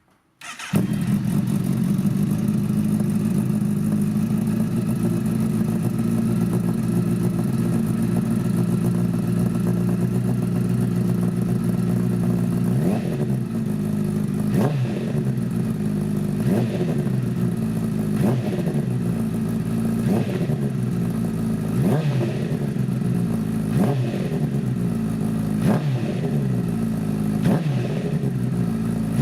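2015 Honda CBR1000RR Fireblade's inline four-cylinder engine through a full Arrow titanium competition exhaust, starting up about half a second in and idling steadily. From a little under halfway on it is blipped in short revs, about one every two seconds.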